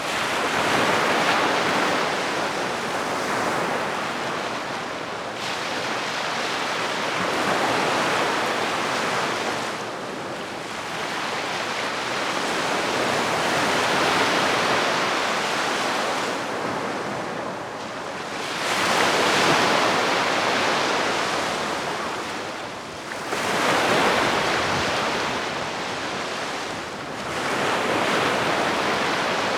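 Gentle sea waves breaking and washing up a beach, a soft surge that swells and ebbs about every four to six seconds.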